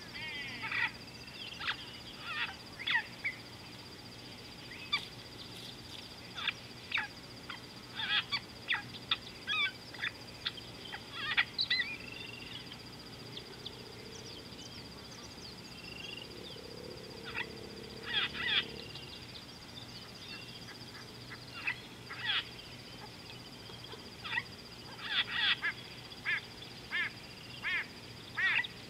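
Birds giving short, harsh honking calls in irregular quick clusters, with fewer calls around the middle, over a steady high-pitched whine.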